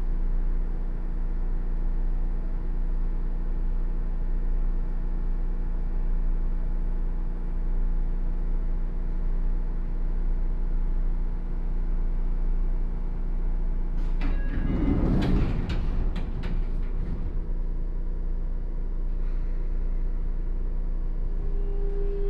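Cabin running sound of a Sotetsu 8000 series electric train car with Hitachi GTO-VVVF inverter control: steady rumble of wheels on rail with a constant hum from the motors and gears. About 14 seconds in, a few seconds of loud rattling and clatter, and near the end a new steady tone sets in, typical of the GTO inverter coming on.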